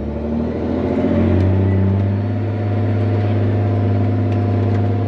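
Articulated dump truck's diesel engine running under load, its pitch rising over the first second or two as it revs up, then holding steady.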